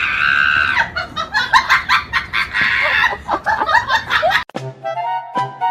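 Loud, rapid calls from an animal or bird, one long call at the start and then many short ones. About four and a half seconds in they cut off abruptly and music with drums and brass starts.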